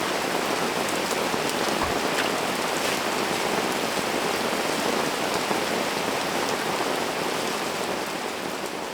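Steady rain falling, with the patter of scattered drops, fading out near the end.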